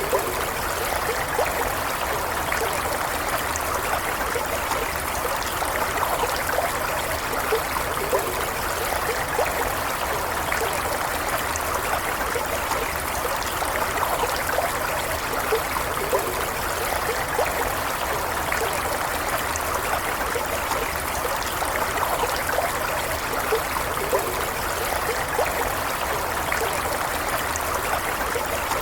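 Running water of a small stream flowing steadily, an even rushing sound dotted with many tiny splashes.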